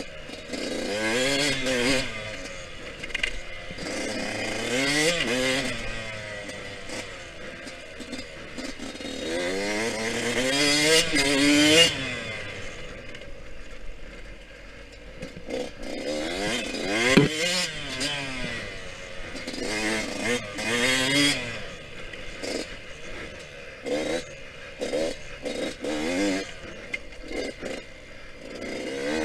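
Yamaha YZ125X two-stroke single-cylinder engine revving up and dropping back again and again as the dirt bike is ridden, with scraping and clattering from the bike and a sharp crack about two-thirds of the way through.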